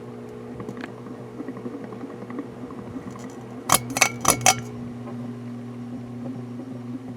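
Heritage Alexis 42-inch hugger ceiling fan running with a steady electric motor hum. About four seconds in comes a quick run of five sharp clinks.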